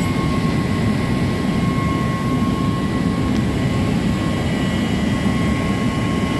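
Steady, loud drone of running machinery: a low rumble with a thin, constant whine above it, unchanging throughout.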